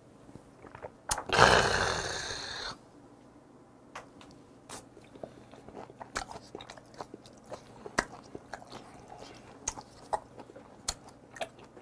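A loud, breathy exhale lasting about a second and a half just after a shot of soju, then close-miked chewing of a mouthful of raw red sea bream sashimi: small wet smacks and clicks of the mouth, irregular, through the rest.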